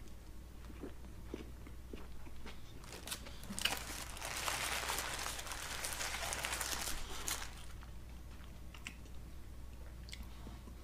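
A person biting into and chewing a burger: soft clicks at first, then a few seconds of dense crunchy chewing noise in the middle.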